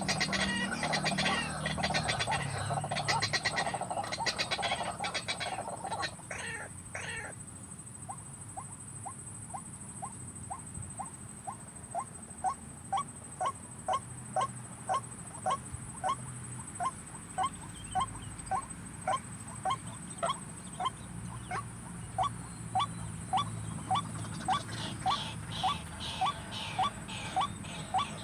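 White-breasted waterhen calling: first a harsh, raucous chorus of croaks, then from about seven seconds in a long run of evenly repeated short 'kwak' notes, about one and a half a second, with harsher calling building again near the end.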